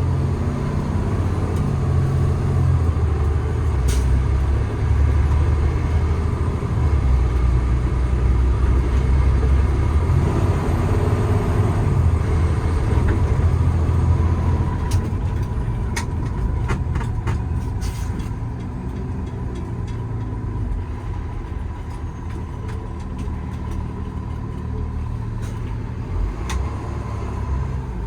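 Paccar PX-9 8.9-litre six-cylinder diesel of a 2017 Peterbilt 337 truck pulling on the road, heard from inside the cab. The engine note steps in pitch several times in the first half as the Allison automatic changes gear, then settles and eases a little.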